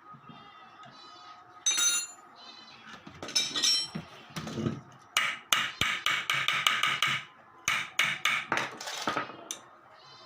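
Hammer striking metal parts of a washing-machine motor, as in a bearing change: a quick run of sharp ringing blows that starts about halfway in and comes in two bursts, with a single ringing hit earlier.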